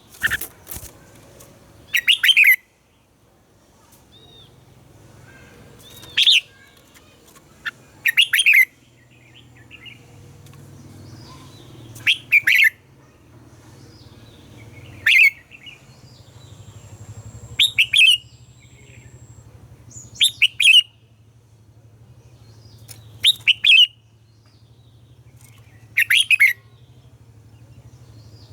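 Red-whiskered bulbul singing short, loud double-note phrases, about ten of them, one every two to three seconds.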